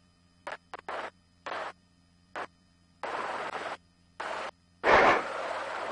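Helicopter headset intercom cutting in and out: short bursts of static-like hiss separated by dead silence, with the loudest burst about five seconds in.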